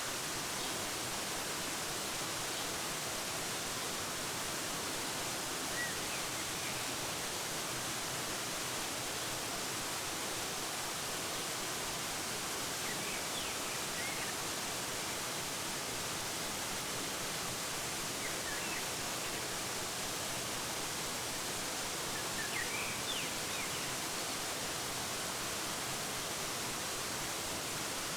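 Waterfall cascading with a steady rushing hiss, with a few faint, brief bird chirps scattered through, a small cluster about halfway and another a little past three-quarters of the way in.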